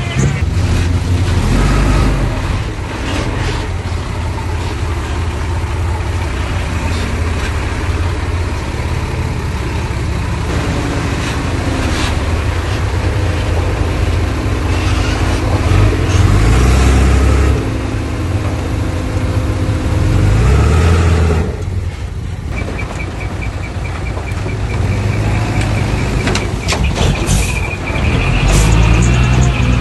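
Heavy diesel engines of earthmoving machines, a bulldozer and a dump truck, working and revving up and down under load, with scattered metallic clanks and knocks. A steady high squeal appears in the last few seconds.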